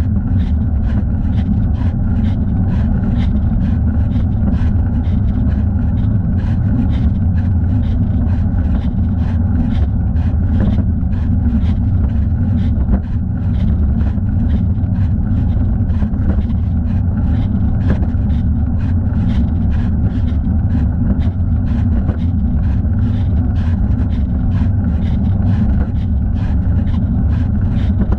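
Steady low rumble of wind on the microphone and tyre noise from a bicycle ride, the camera strapped to the rider's thigh, with a light regular swish about twice a second that keeps time with the pedalling.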